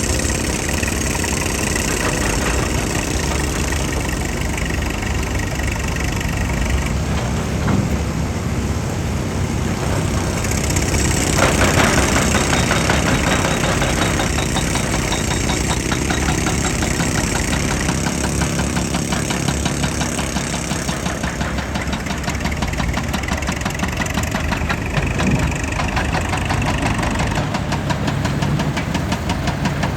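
Heavy machinery's engine running steadily under load, with a rise in hissing, clattering noise from about eleven seconds in.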